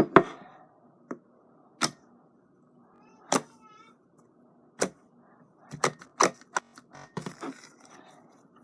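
Fluffy slime being squeezed and poked by hand, its trapped air bubbles popping in sharp, irregular clicks, a quick cluster of them near the end.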